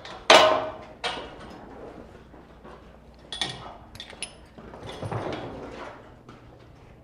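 A loud bang about a third of a second in that rings briefly, followed by scattered knocks and a rattling clatter, like something wooden or metal being moved or banged.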